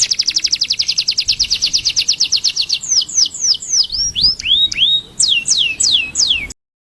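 A bird singing: a fast trill of rapid, evenly repeated high notes for nearly three seconds, then a series of clear down-slurred whistles. It cuts off suddenly near the end.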